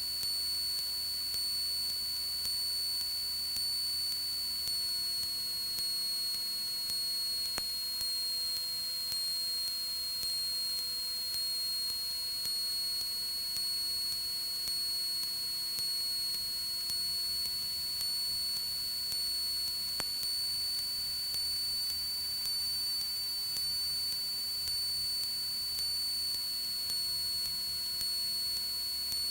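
Steady high-pitched electrical whine in a Cessna 172's headset audio feed, drifting slightly in pitch now and then, over a faint low engine drone.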